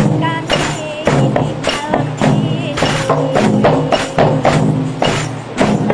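Rebana frame-drum ensemble playing a steady beat, with a wavering melody line over the drums.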